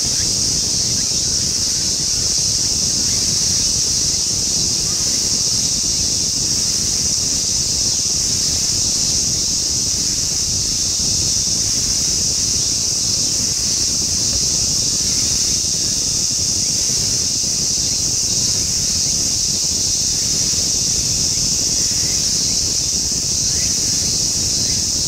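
A steady high-pitched drone that holds unbroken throughout, over a low rumble of wind on the microphone.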